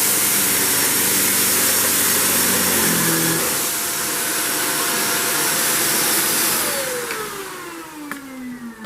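Upright vacuum cleaner running on suction alone with the brush roll off, its motor giving a steady whine. About six and a half seconds in it is switched off, and the whine falls steadily in pitch as the motor winds down.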